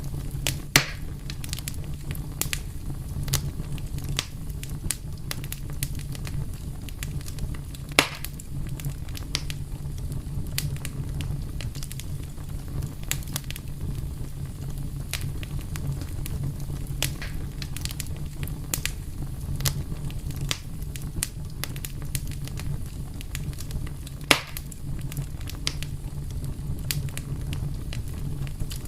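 Wood fire burning steadily with a low rumble and frequent sharp crackles, with three louder pops standing out over the rest.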